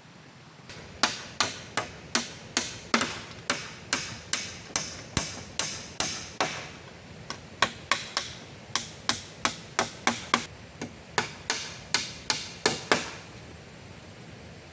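A tool striking wood in a fast, even rhythm, about three sharp knocks a second, like chopping or hammering at a camp. The knocks stop for about a second midway, then carry on before ending a little before the end.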